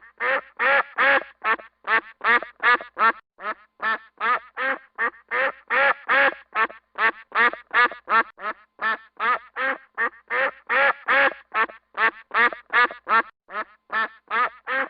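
Duck quacking over and over in a quick, even series of short calls, about three a second, without a break.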